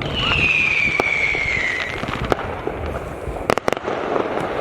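Consumer fireworks going off: a whistle falling in pitch for about two seconds, then several sharp cracks, two of them close together near the end, over steady crackling.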